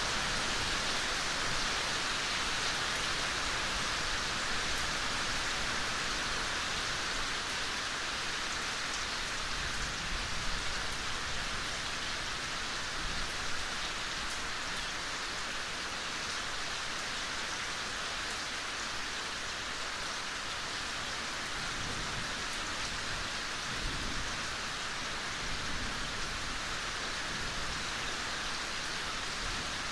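Steady soft rain falling, a continuous even hiss of drops with a few louder individual drop ticks, one about ten seconds in.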